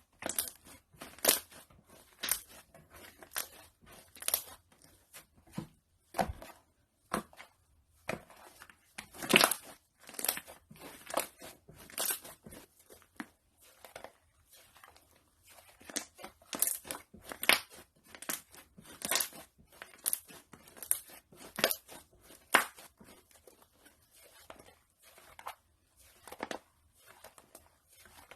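Slime being squished and pressed, giving irregular sharp crackles and pops, sometimes several in quick succession with short quiet gaps between.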